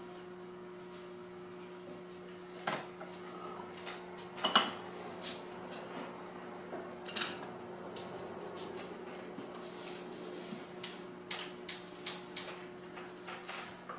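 Light clinks and taps of painting tools against ceramic dishes, a few sharper knocks in the first half and many small ticks later, over a steady low electrical hum.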